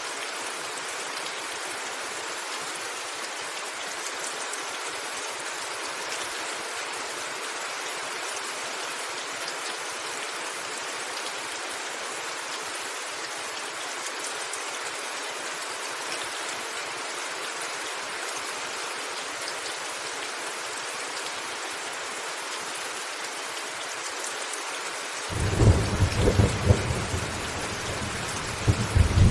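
Steady rain falling on a roof, an even hiss. Near the end a deep rumble of thunder comes in suddenly, with several loud cracks.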